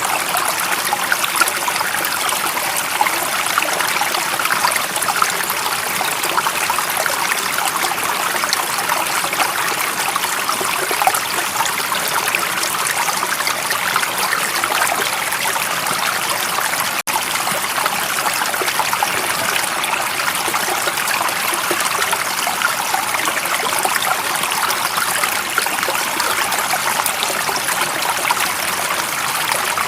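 Running water of a stream, a steady rushing and trickling without pauses, with a split-second gap just after halfway.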